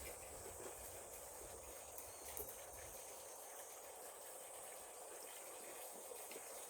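Faint outdoor ambience with a steady high hiss and a few small ticks; a low rumble fades out about three seconds in.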